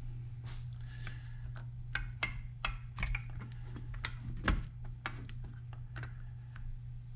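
Irregular light clicks and taps of small chainsaw engine parts being handled and fitted together, the strongest about halfway through, over a steady low hum.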